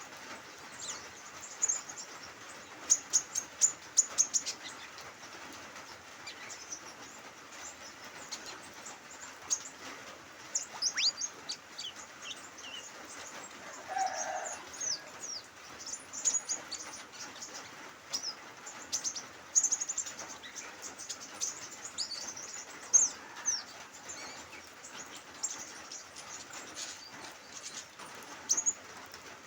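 Small birds chirping and twittering in quick, high, short notes throughout, over a steady soft hiss of light drizzle. A few sharp clicks come about three to four seconds in.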